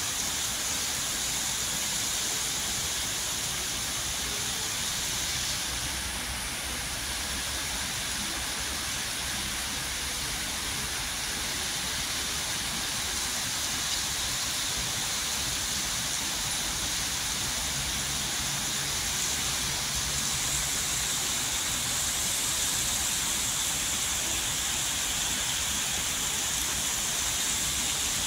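Heavy rain falling steadily, a dense even hiss that holds throughout.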